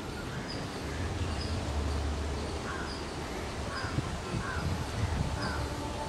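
Birds calling: about four short calls spaced through the second half, over a thin high chirp that repeats about twice a second.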